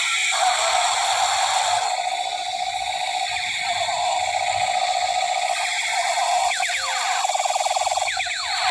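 Battery-powered toy space gun playing its electronic sound effects through a small tinny speaker: a continuous electronic buzzing, then near the end quick runs of falling laser zaps.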